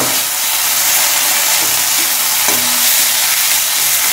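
Onions and ginger-garlic paste sizzling in hot oil in a metal kadai while being stirred with a metal spatula, which scrapes and knocks against the pan a few times.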